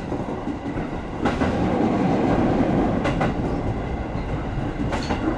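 JR 205 series electric train running along the track, heard from inside its driver's cab: a steady rumble of the wheels on the rails, with sharp knocks about a second in, two close together around three seconds, and one near the end.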